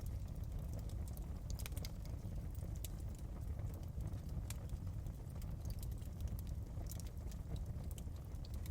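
Crackling fireplace: irregular sharp pops and snaps of burning wood over a steady low rumble of the fire.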